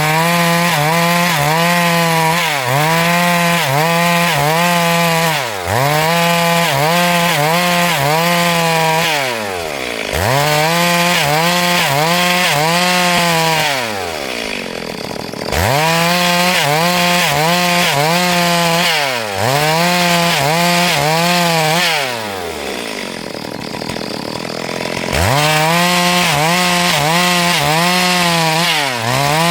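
Two-stroke chainsaw ripping lengthwise through a log at high revs. The engine pitch dips briefly again and again as the chain bites. It eases off twice, about halfway through and again about three quarters through, then revs back up into the cut.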